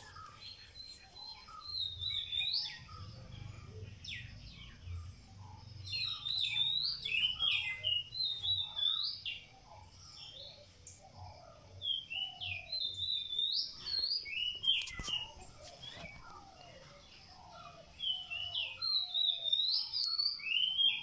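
A songbird singing short phrases of quick chirps and rising notes, in four bouts a few seconds apart, with a faint low hum underneath.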